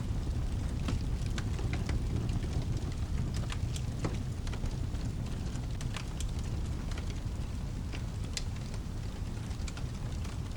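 Crackling fireplace, with sharp, irregular pops and snaps over a steady low storm rumble.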